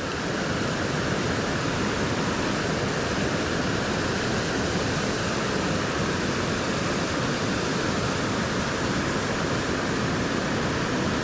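Steady rushing of water from a small creek waterfall, an even roar with no breaks.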